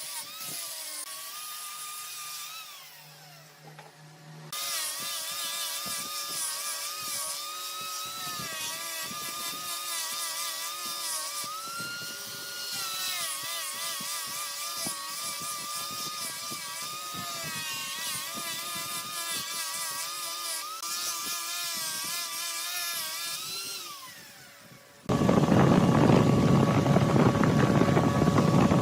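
A woodworking machine running with a whining tone that wavers up and down in pitch and a steady lower hum under it. It dips briefly a few seconds in, and about 25 s in it switches abruptly to a much louder, rough grinding noise with no clear tone.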